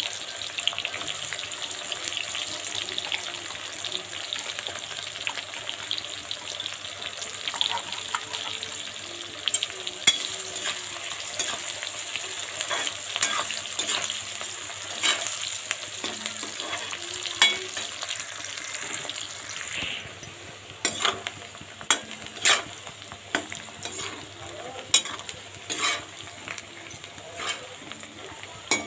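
Sliced onions and garlic sizzling in hot oil in a metal kadhai, stirred with a metal spoon that scrapes and taps against the pan. The sizzle runs steady for most of it, then eases in the last third while the taps come quicker and louder.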